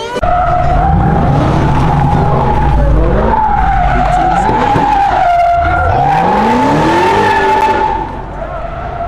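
A car's spinning tyres squealing in one long, slightly wavering screech, with the engine rumbling and revving up underneath; the screech stops about eight seconds in.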